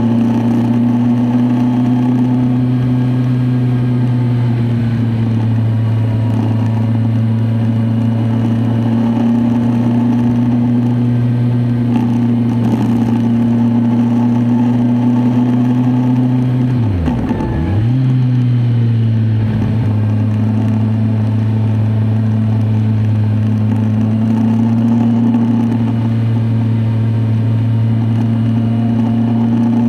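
Kawasaki Z1000SX inline-four engine running at steady revs under way, with a short sharp drop in engine pitch that comes straight back up a little past halfway through.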